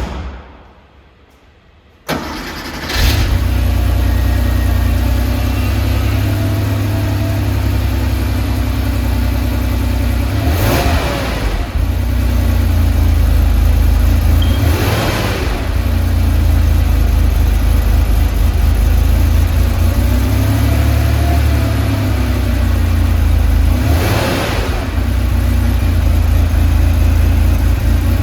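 A click, then a 1989 Porsche 911's air-cooled flat-six cranks briefly and catches from cold about two seconds in. It settles into a steady fast idle, with three short blips of the throttle that rise and fall in pitch.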